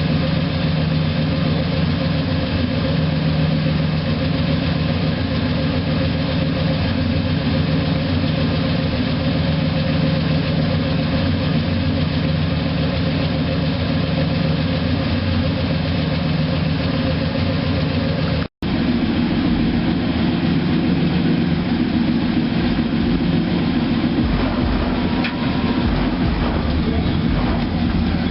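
Carbureted 5.0-litre (305) V8 of a 1988 Chevrolet Caprice Classic idling steadily after a cold start, with a brief cut in the sound about two-thirds of the way through.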